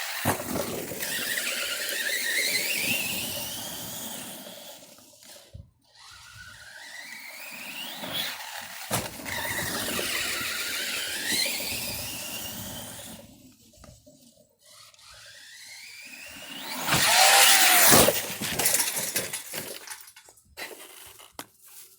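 Battery-powered RC car's electric motor whining up in pitch as it accelerates, in three separate runs with quieter gaps between them. About three-quarters through comes a loud, noisy rush, the loudest moment.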